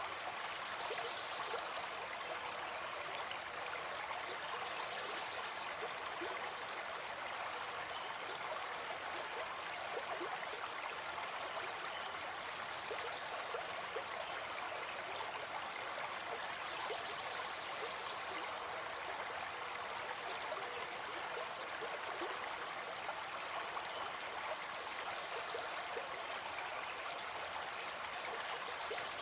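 Gentle forest stream flowing steadily, a constant even babble of water with many small gurgles and splashes.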